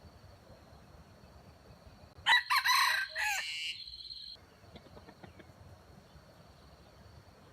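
A rooster crows once, a short crow of about a second and a half, a little over two seconds in.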